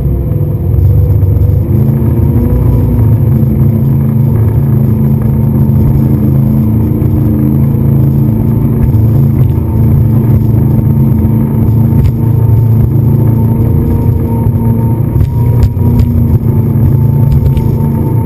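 Motorboat engine running steadily under way, with a few sharp knocks near the end.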